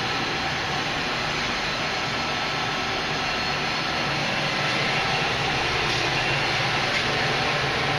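Victor engine lathe running steadily, its motor and gearing giving a constant mechanical drone with a low hum underneath.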